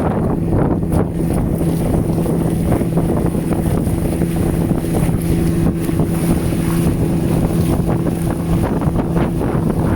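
A boat's outboard motor running at a steady speed, a constant drone, with wind buffeting the microphone.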